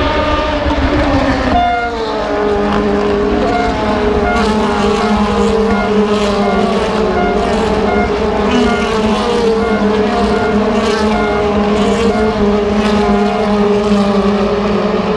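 Several DTM race cars' naturally aspirated V8 engines running together at steady revs, their notes overlapping in a continuous drone. About a second and a half in, one engine's pitch drops before the pack settles into a level hum.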